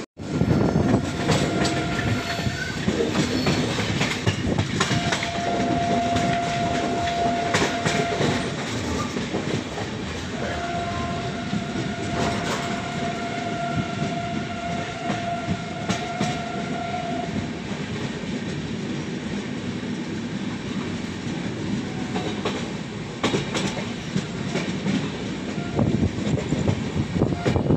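Indian Railways LHB sleeper coach of an express train rolling out of a station, with running wheel noise and clatter over the rail joints. A long steady horn blast sounds twice early on, the second lasting about seven seconds.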